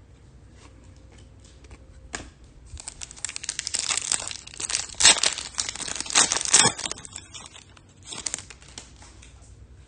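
Trading-card pack wrapper crinkling and tearing as a pack is handled and opened, a run of irregular rustles from about two seconds in to about seven seconds in, with a few smaller rustles after.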